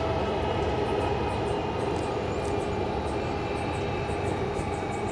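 Jet airliner engines running steadily: a continuous rumble and rush with a held whine.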